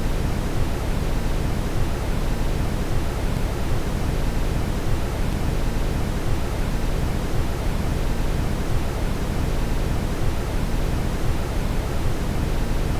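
Steady brown noise: a deep, even rushing hiss, heaviest in the low end, with no change or pattern.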